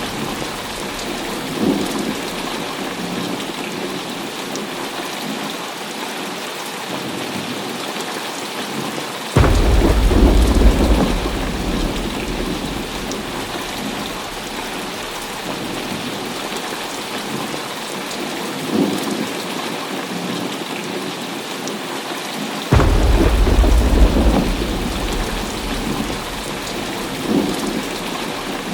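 Heavy rain falling steadily, with two sudden claps of thunder, about nine seconds in and again about 23 seconds in. Each clap is followed by a low rumble that fades over a few seconds, and fainter rumbles come in between.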